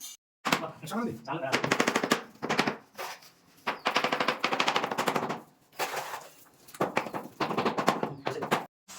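A power tool with a very fast rattling action, run in about seven short bursts of half a second to a second and a half each.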